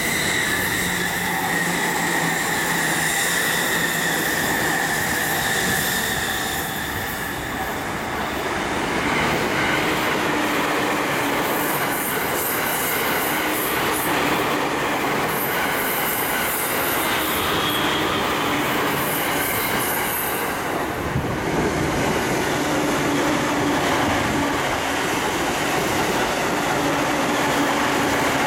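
Electric trains passing at speed, one after another: steady rolling noise and wheel clatter on the rails. A high whining squeal comes from the wheels on the curve during the first several seconds.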